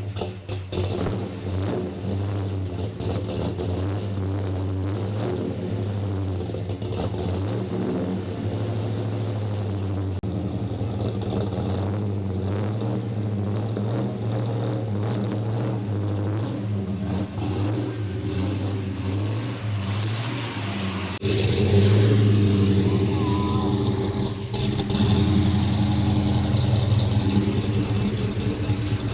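1972 Dodge Demon's 340 V8 running just after a cold start, idling steadily. About two-thirds of the way through it becomes noticeably louder.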